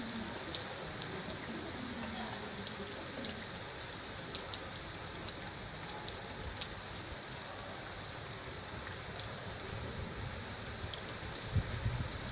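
Steady rain falling, with single drops now and then hitting a surface in sharp ticks. A low rumble comes up near the end.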